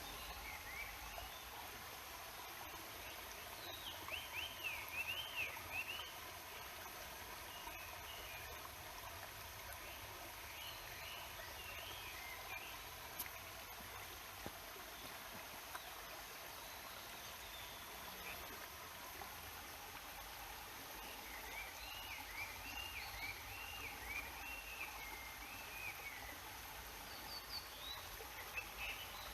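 A stream's water murmuring steadily, with small birds singing chirping phrases over it, a burst of song about four seconds in and another run in the second half.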